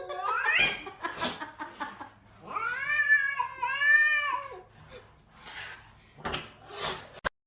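A cat yowling: one rising call at the start, then two long, wavering calls in the middle, followed by a few short noisy sounds near the end.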